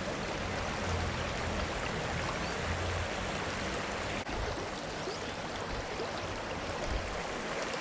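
Creek water running steadily, an even wash of water noise.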